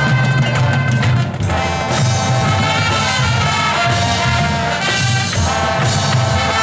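High school marching band playing: brass with trumpets and trombones holding sustained chords over drums.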